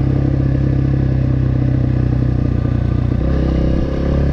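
Single-cylinder enduro dirt bike engine running steadily under throttle while riding in soft sand, with a brief drop in engine note about three seconds in before it picks back up.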